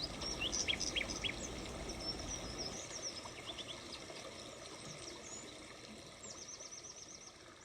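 Small songbirds chirping over a steady outdoor hiss, with a quick trill of rapidly repeated notes near the end, the whole sound gradually fading.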